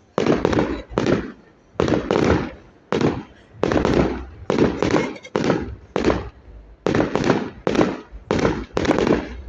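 Fireworks display: a rapid series of loud shell bangs, about two a second, each ringing off briefly.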